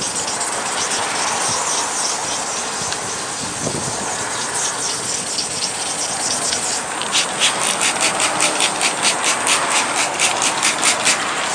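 Wet sanding of a plastic headlight lens by hand with 400-grit wet/dry sandpaper, scrubbing off the glazed, oxidised surface. A steady rasping rub gives way, about seven seconds in, to quick back-and-forth strokes at about four a second.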